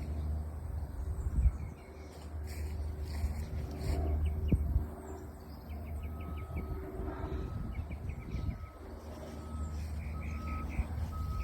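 Small birds chirping in quick high runs over a steady low rumble, with a thin short tone repeating in the second half. Two sharp knocks, about a second and a half in and again near halfway.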